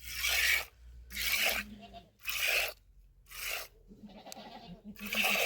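Goats bleating in a string of harsh, raspy calls, about one a second.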